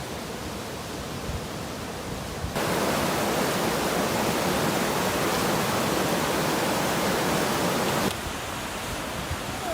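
Steady hiss of falling or running water. It turns abruptly louder and brighter about two and a half seconds in and drops back just as abruptly near the end.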